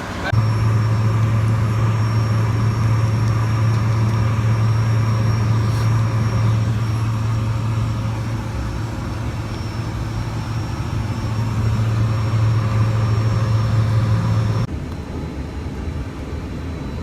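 Steady low drone and road noise of a moving vehicle, heard from inside the cabin. Near the end it cuts off abruptly to a quieter steady noise.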